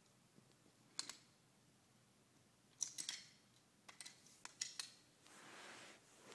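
Hard toy train pieces clicking and clacking together as a toddler handles them: a single click about a second in, then little clusters of clicks, followed by a soft rustling near the end.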